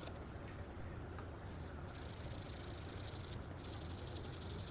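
80-grit sandpaper rubbed by hand over a plastic bumper cover, a steady scratchy hiss that starts about two seconds in, with one short pause; the sanding shows up the highs and lows of a pushed-out dent.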